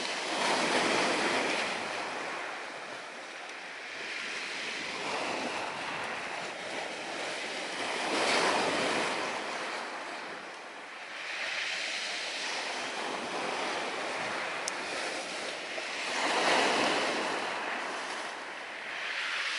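Surf washing onto the shore, the rush of the waves swelling and fading about every four seconds. A single faint click sounds about 15 seconds in.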